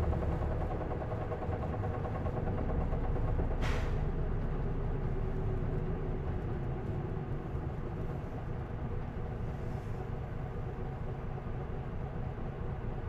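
Interior sound of an Isuzu Erga city bus with its straight-six diesel running while under way, easing off slowly. About three and a half seconds in there is one short hiss of air.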